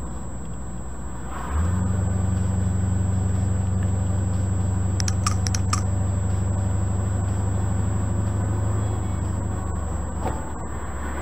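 1969 Corvette C3 V8 engine running at low road speed, heard from the car. Its low drone steps up louder and higher about a second and a half in, holds steady, and eases back near the end. A few sharp clicks come about halfway through.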